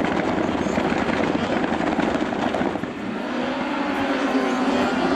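Several rallycross Supercars held at high revs with a dense crackle, then pulling away about three seconds in, their engines rising in pitch as they accelerate.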